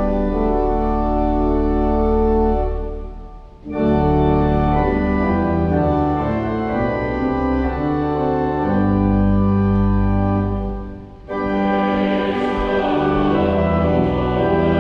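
Church organ playing held hymn chords in phrases, with two short breaks between phrases, about three and a half seconds in and again about eleven seconds in.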